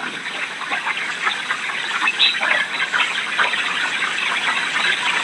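Steady rushing of hurricane wind and rain.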